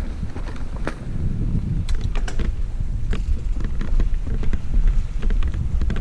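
Mountain bike ridden slowly along a dirt singletrack, with a steady rumble of wind on the microphone and scattered clicks and rattles from the bike and its tyres over the trail.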